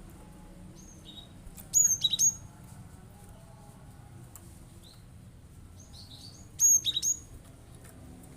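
Cinereous tit (glatik batu) giving two loud bursts of sharp, high 'shooting' calls about five seconds apart. Each burst is a few quick notes that sweep down in pitch.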